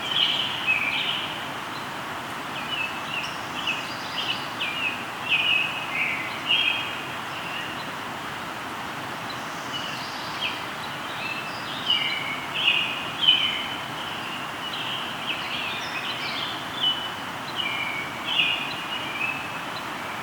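Birds singing in quick runs of short chirping notes over the steady rush of a flowing river. The song comes in two bouts, with a pause of a few seconds near the middle where only the river is heard.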